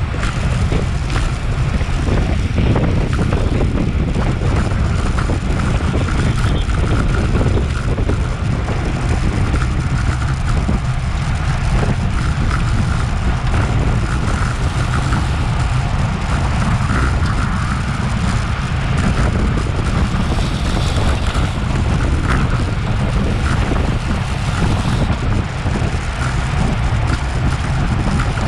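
Steady wind noise buffeting an action camera's microphone on a road bike moving at race speed, a loud low rumble with a fainter hum from the tyres and drivetrain.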